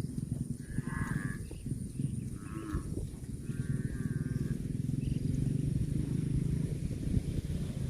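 Cow mooing: one long, low moo that starts about halfway through. A few short, higher-pitched calls come before it.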